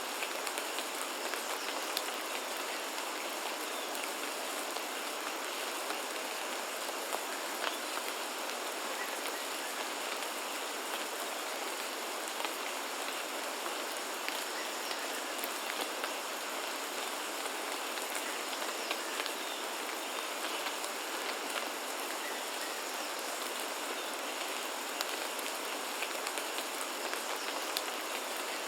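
Steady rain falling on foliage, with frequent individual drops ticking close by over an even hiss.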